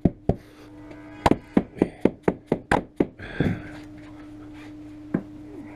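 Hammer tapping a plastic trim tool to work the rubber seal of a Jaguar MK1 windscreen into place. The taps come quickly, about four a second, in a run of about eight. A duller thunk with a brief rustle follows, then one last tap, over a steady low hum.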